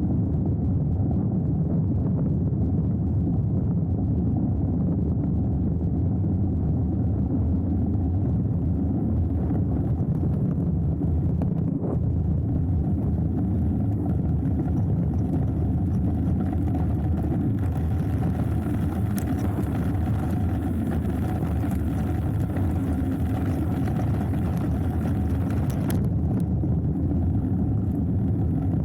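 Steady rushing noise of a hardtail mountain bike riding down a dirt trail: wind on the camera's microphone and tyres rolling over the ground, with a few sharp knocks and rattles.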